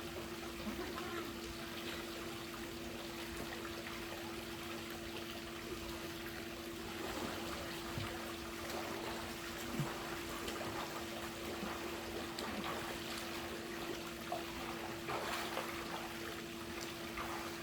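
Swimming pool water splashing and trickling, with a few louder splashes near the end and a steady hum underneath.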